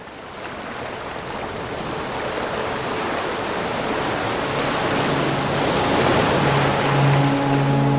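Rushing ocean surf fading in and growing steadily louder. Soft sustained music notes come in about halfway through and build toward the end.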